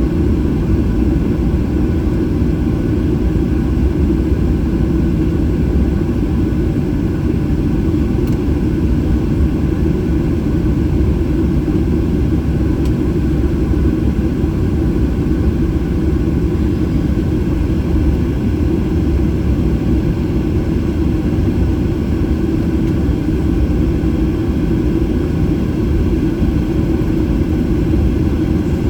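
Steady engine and airframe rumble inside a Boeing 737-800 cabin, heard from a rear window seat, from its CFM56 turbofan engines.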